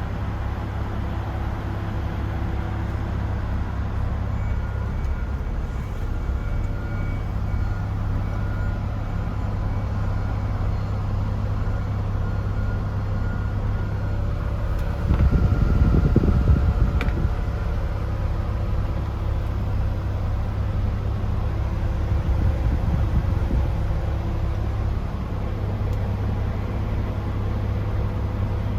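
DAF CF 510 tractor unit's Paccar MX-13 six-cylinder diesel engine running at a steady idle, with a brief swell in loudness about halfway through.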